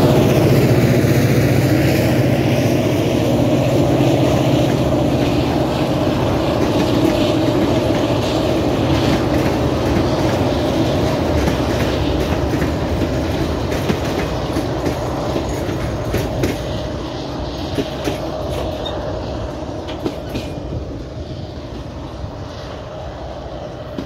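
ADIF class 310 diesel locomotive 310.047 passing close with its engine running, followed by six loaded ballast hopper wagons rolling by with wheel clatter over the rail joints. The sound fades slowly as the train draws away.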